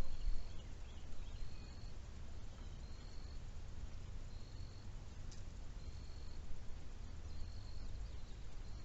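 A small animal calling outdoors: a short, high, even-pitched chirp repeated steadily about every second and a half, seven times, with a few fainter chirps early on and a low rumble underneath.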